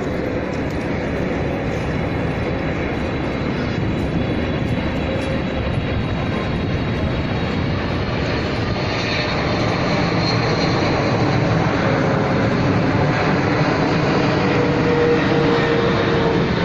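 Jet airliner engines, an Airbus A380, running loud and steady and slowly building in volume as the aircraft comes into view, with a faint turbine whine near the end.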